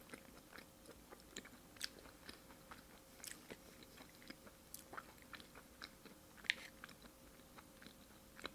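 Faint mouth sounds of a person chewing sashimi: soft, irregular wet clicks and smacks, with one sharper click about six and a half seconds in.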